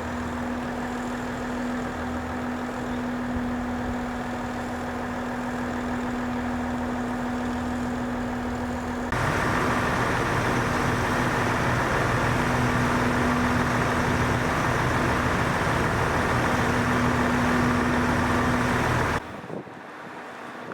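Diesel railcar engines of a KiHa 189 series train idling: a steady drone with a constant hum tone. It steps up suddenly in level about nine seconds in and cuts off abruptly near the end.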